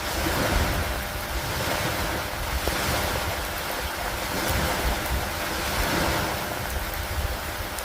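Stormy lakeside ambience: a steady rush of wind and water that swells and eases every couple of seconds, over a low rumble.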